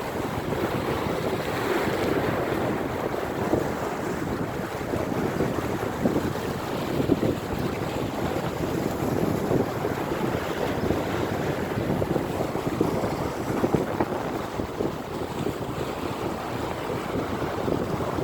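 Wind buffeting the microphone, a steady rushing noise that flutters in level, with no distinct calls or other events standing out.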